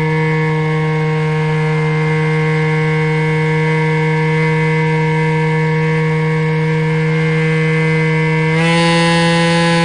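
Electric motor and propeller of an RC model Cessna 182, heard up close, whining at a steady pitch, then stepping up in pitch and getting a little louder near the end as the throttle is opened.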